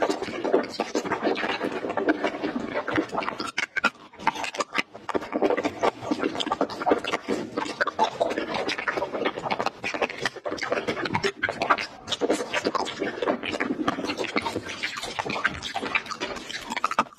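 Close-miked chewing and biting of soft jelly candies: a dense, unbroken run of small clicks and smacking mouth sounds.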